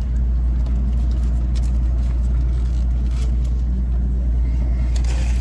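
A car's engine running steadily with a low rumble, with a few faint clicks over it.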